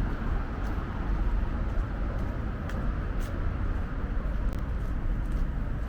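Outdoor street ambience: a steady low rumble of road traffic, with a few faint light ticks over it.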